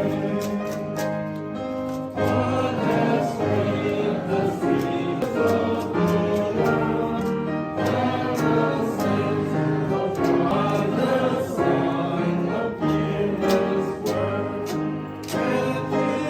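Background music: a choir singing a gospel-style song with instrumental accompaniment.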